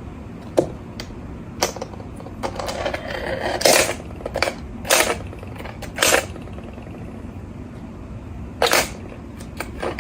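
A handful of short clattering knocks and scrapes, about seven, over a steady low rumble.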